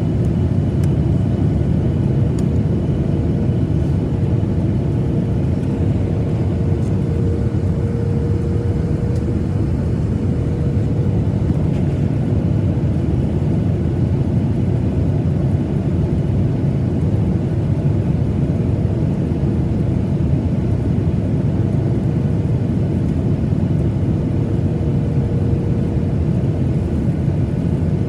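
Steady, loud cabin drone of a Boeing 737-900ER airliner, engine and air noise heard from a passenger seat, with a faint humming tone that swells and fades.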